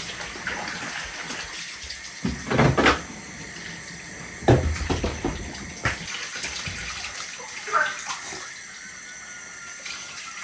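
Steady rush of water, with a few louder knocks and clatters about three, four and a half and eight seconds in.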